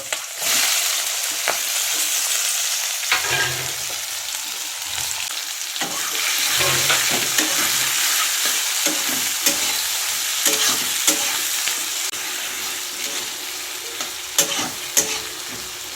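Onions sizzling in hot oil with whole spices in a kadai, stirred with a spatula. The sizzle jumps up just as the onions go in, then holds steady, with occasional clicks of the spatula against the pan, more of them near the end.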